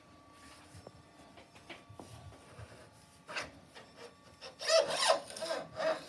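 Scattered faint clicks, then a short scrape and, near the end, about a second and a half of loud back-and-forth rubbing strokes from hand work on a motorcycle front fork during a fork seal change.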